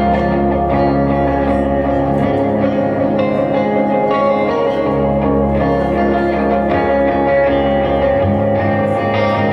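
Live band playing an instrumental passage led by guitar, with low bass notes held under it and no singing.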